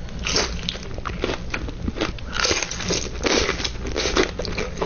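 Close-up eating sounds: crisp food being bitten and chewed in a run of irregular crackling crunches.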